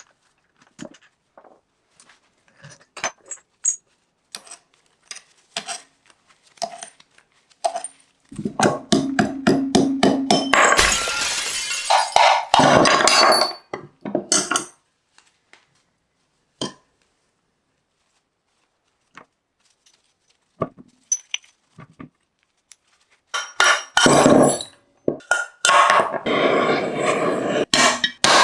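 Workshop work on metal parts: scattered clicks, clinks and knocks of tools and parts. A loud continuous noise sounds for about six seconds in the middle, and again for about four seconds near the end.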